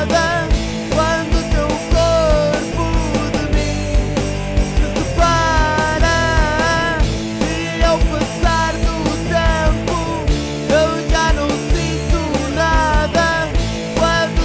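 Rock band demo recording playing an instrumental passage: a steady drum beat, bass and guitars, with a lead melody line that bends up and down in pitch.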